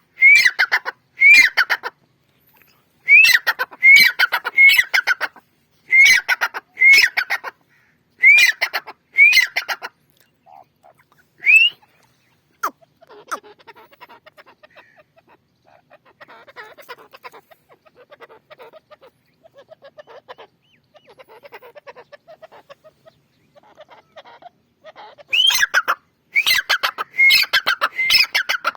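A partridge calling loudly in repeated sharp calls, grouped in quick runs. Soft, low chattering follows for about a dozen seconds, then the loud calling starts again near the end.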